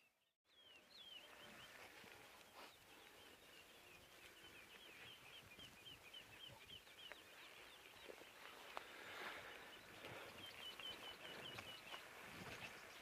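A bird calling faintly, a long run of short, high chirps at about three a second, with a quicker, tighter run near the end.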